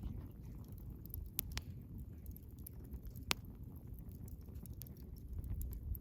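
Wood bonfire crackling: a steady low rumble of burning with scattered sharp pops, the loudest about three seconds in.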